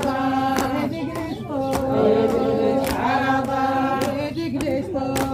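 A woman chanting an Iraqi 'arada in long held notes, with sharp percussive hits now and then.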